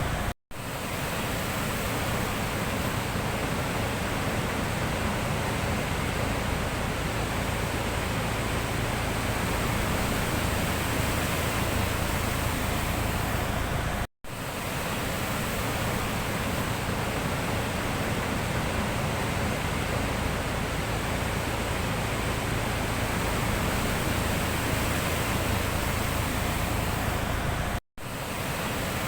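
Sea surf heard as a steady, even rush of noise, cutting out for a split second three times.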